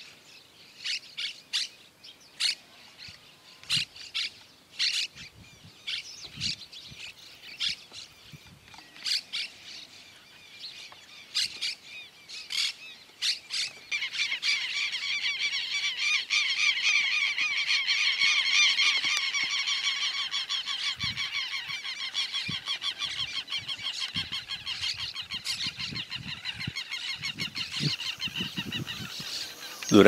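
Wild birds calling: separate short, high calls through the first half, then from about fourteen seconds a dense, continuous chatter of many birds.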